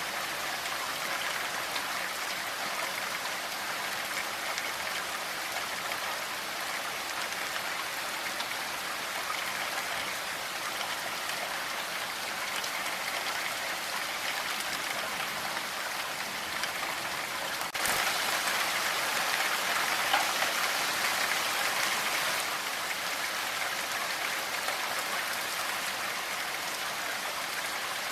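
Steady rain falling, an even hiss of drops. About two-thirds of the way in it suddenly gets louder for a few seconds, then settles back.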